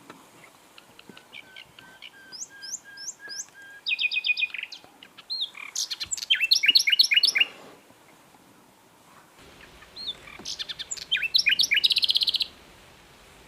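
Common nightingale singing in separate phrases with pauses between them. The first is a soft run of repeated low notes that ends in a quick trill. The second is a loud phrase of rapid repeated notes, and near the end a third phrase closes in a fast trill.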